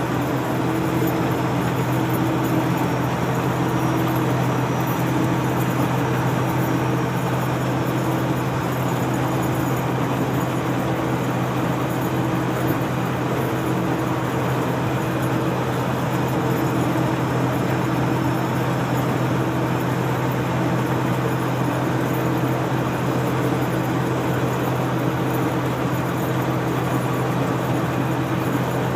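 Detroit Diesel Series 60 inline-six turbo diesel of a 1995 Freightliner truck running at a steady speed with an even drone. A faint high whistle rises and falls gently over the first several seconds.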